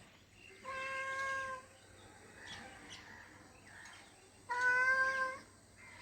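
Domestic cat meowing twice: two long, steady meows about four seconds apart, the second one louder.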